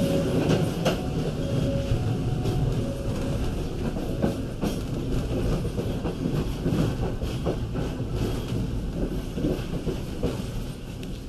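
Local passenger train running at low speed, with a steady rumble and wheels clacking over rail joints and points.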